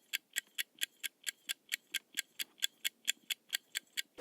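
Countdown timer sound effect: a clock ticking evenly at about four to five ticks a second, marking the guessing time.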